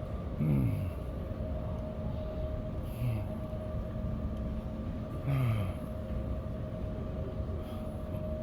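Steady low rumble with a constant hum, broken three times by short murmured voice fragments.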